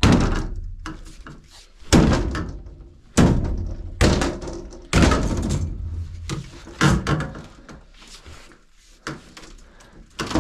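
Heavy thuds and bangs: about seven irregular blows a second or two apart, each dying away with a ringing tail, as old fittings are knocked apart during demolition.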